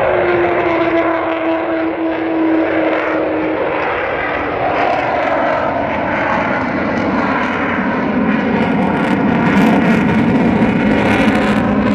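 Avro Vulcan XH558's four Rolls-Royce Olympus turbojets in a loud flypast, carrying the Vulcan's characteristic intake howl. Held tones sit above the jet noise and slide slightly lower over the first few seconds, and a deeper tone takes over in the second half.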